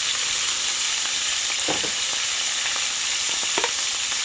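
Chicken strips sizzling in olive oil in a skillet: a steady frying hiss, with two short, sharper sounds over it, about two seconds and three and a half seconds in.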